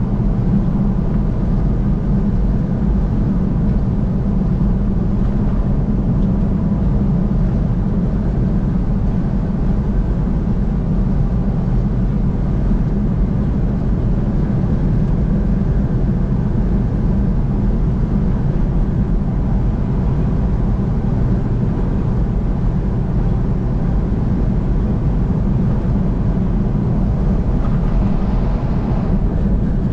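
Steady road and engine noise of a vehicle driving on a highway, a constant low rumble that stays even throughout.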